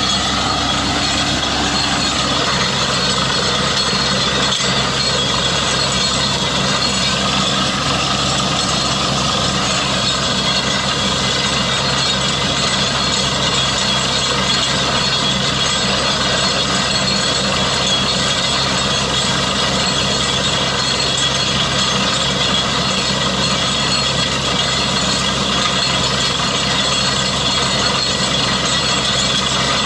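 Borewell drilling rig running steadily, its engine and drilling machinery making a loud, constant drone.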